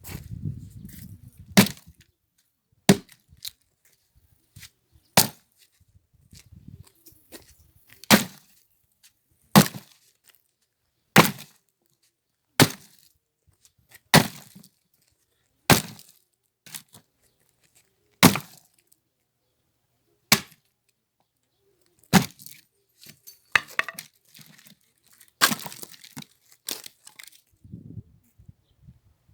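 Axe chopping firewood: about a dozen sharp blows on wood, one every one and a half to two seconds, with some cracking of splitting wood between strikes.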